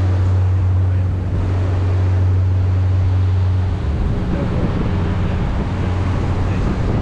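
Motor boat under way: the engine runs with a steady low hum over rushing water, with wind buffeting the microphone. About four seconds in, the steady hum breaks up into a rougher, fluctuating rumble.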